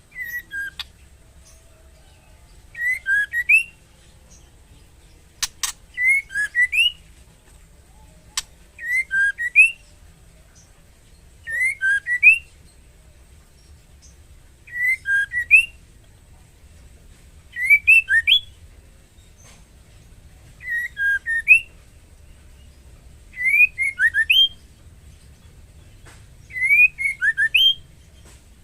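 Female white-rumped shama calling: a short cluster of quick whistled notes that rise and fall, repeated about every three seconds. This is the call of a female in breeding condition calling to a male. A couple of sharp clicks sound near the start and about five seconds in.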